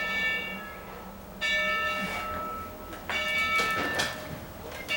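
A large bell ringing in slow, even strokes, about one every second and a half to two seconds, each stroke ringing on and fading before the next.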